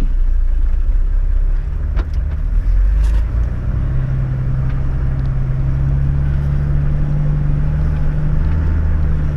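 Four-wheel-drive engine running, its revs rising about three and a half seconds in and then holding steady under load. A couple of faint clicks come before the rise.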